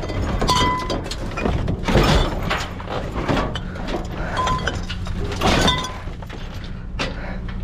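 Junk being rummaged through in a dumpster: a run of irregular clattering knocks and clinks, some with a short ringing tone like glass or hard ceramic, over a steady low hum.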